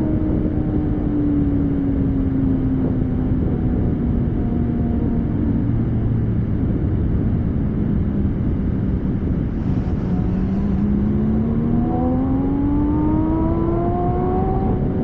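Porsche 718 Spyder's 4.0-litre flat-six sounding through a Kline valved exhaust with OPF-delete pipes, over a heavy rushing noise. The note falls slowly as engine speed drops, holds low around the middle, then climbs steadily as the car accelerates again.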